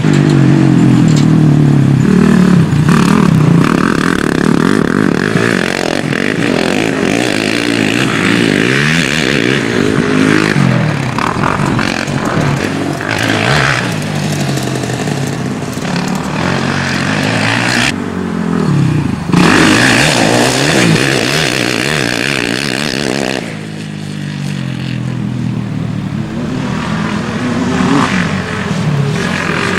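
Motocross bike engines revving hard and easing off as they ride the track, the pitch rising and falling again and again, with more than one engine heard at times.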